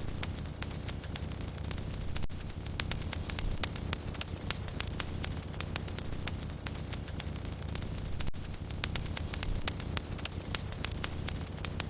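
Wood fire crackling, with many small sharp pops and snaps over a low, steady rumble of flames.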